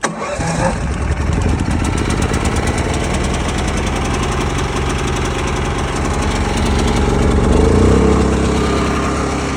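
A vending truck's onboard generator engine catches right at the start and runs steadily on its test run. About seven to eight seconds in its speed and loudness pick up briefly, then settle into an even run.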